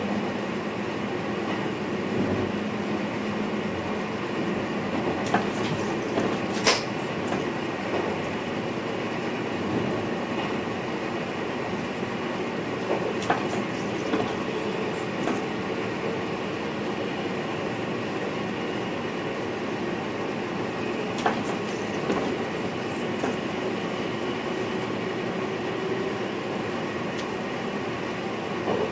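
VIRM double-deck electric train running along the track, heard from inside the driver's cab: a steady rumble and hiss. Occasional sharp clicks and knocks come from the wheels crossing rail joints or points, the loudest about seven seconds in.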